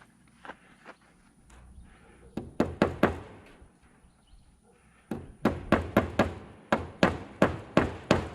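Hammer driving nails into wooden framing: a few light taps, a quick run of about five blows, then a steady run of about a dozen blows at roughly four a second.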